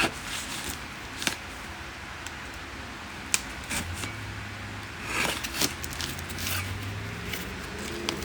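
A cardboard shipping box being opened by hand: scattered sharp clicks, scrapes and rustles of cardboard and packing tape.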